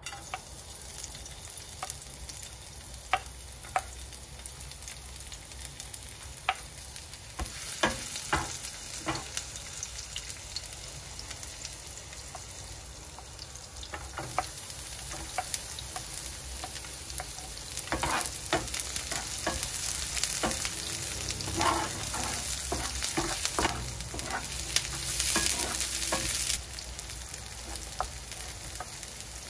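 Chopped garlic, chilli and then red onion sizzling in hot oil in a non-stick frying pan, with sharp clicks and taps of a wooden spatula scraping the pieces off a plate into the pan. The sizzle grows louder as each batch goes in and drops suddenly near the end.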